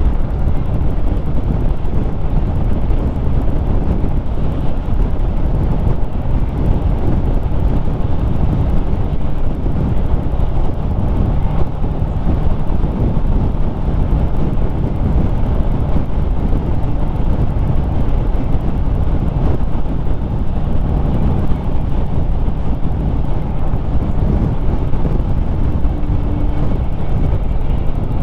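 Harley-Davidson Street Rod 750's V-twin engine running steadily while riding, with wind noise on the microphone.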